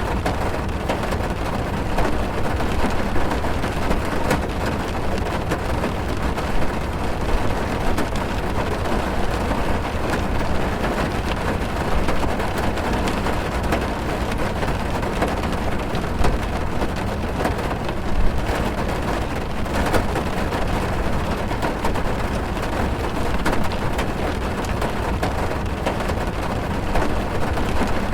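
Heavy rain drumming on a car's roof and windows, heard from inside the car: a steady dense rush with many small drop impacts, with a deep low rumble underneath.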